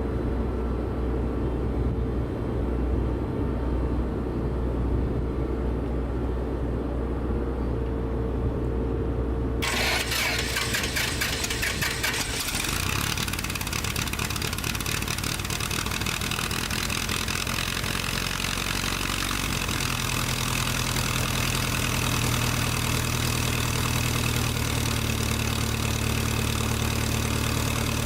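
A low engine rumble, then about ten seconds in the sound switches to an engine being cranked and catching. It then runs steadily, settling to a different speed about two-thirds of the way through.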